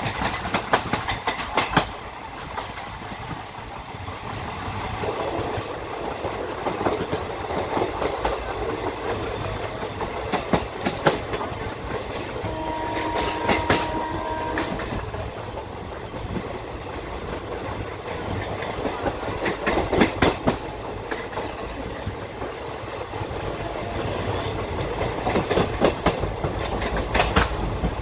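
Rumble and wheel clatter of an Indian Railways passenger coach running along the track, heard from its open door, with bursts of clickety-clack as the wheels cross rail joints and points. About halfway through, a train horn sounds for about two seconds.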